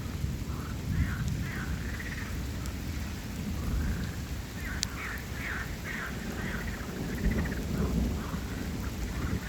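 Steady rain with a low rumble of thunder, the loudest part of the sound. Over it comes a run of short repeated animal calls.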